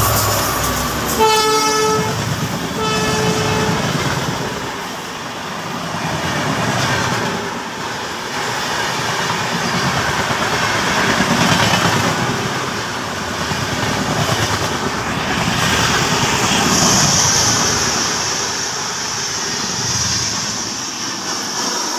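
A train horn gives two short blasts about a second and three seconds in, over the steady rush and rumble of an Indian express train's LHB coaches passing at speed on the next track.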